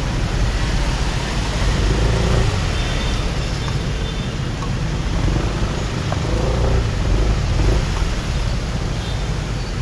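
Motorbike riding through city traffic: steady engine and road noise under a heavy low rumble, with other vehicles' engines faintly rising and falling about two seconds in and again around six to seven seconds in.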